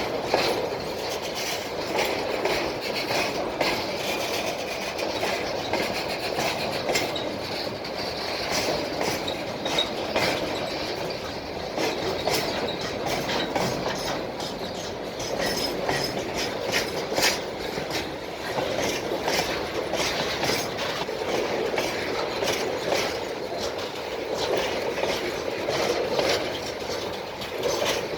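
Freight train wagons rolling past, their wheels clicking steadily over the rail joints with a continuous rumble of running gear.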